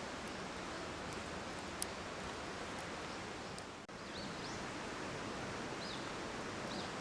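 Wood campfire burning with a steady hiss and scattered sharp crackling pops, the loudest about two seconds in. A few short, high bird chirps come in the second half.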